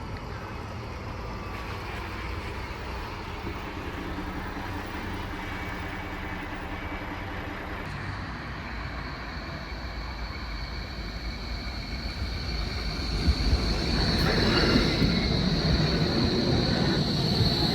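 Tram running, a steady rumble with a high steady whine. It grows louder about two thirds of the way through.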